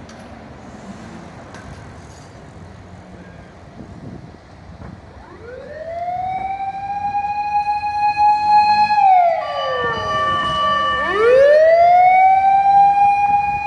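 Japanese fire command car's siren starting up about five seconds in. It winds up to a steady high wail, slides down, then winds up again and holds.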